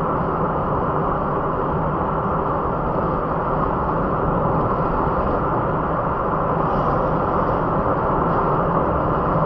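Car driving along: a steady mix of engine and tyre-on-road noise with no sharp events.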